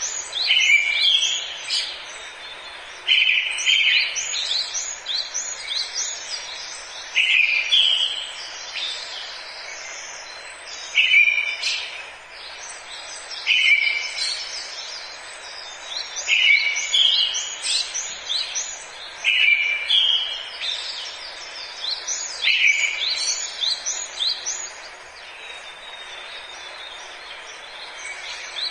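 A songbird singing a short phrase about every three to four seconds, each opening on a strong note and running into quick higher notes, with other bird chirps around it over a steady hiss of forest ambience.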